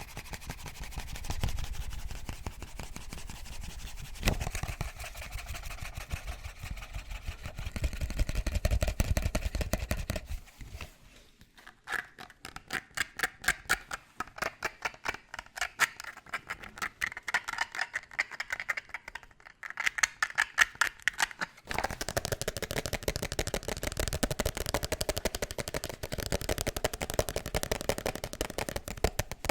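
ASMR fast scratching and tapping on objects. A dense scratching texture runs for about the first ten seconds, then gives way to rapid separate taps, and about twenty seconds in dense scratching returns.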